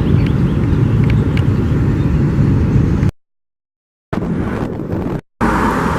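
Outdoor background noise: a steady low rumble, with a second of dead silence about three seconds in and a brief dropout near the end where the footage is cut.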